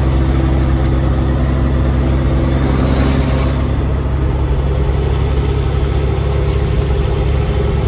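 Peterbilt semi truck's diesel engine droning steadily while driving down the road, with road noise.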